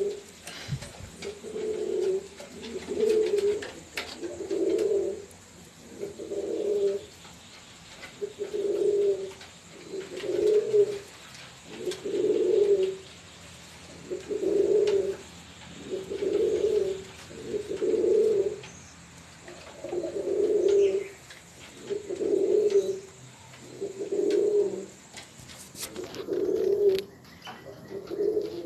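Pigeon cooing: low, throaty coos repeated steadily, about one every two seconds, with no pause.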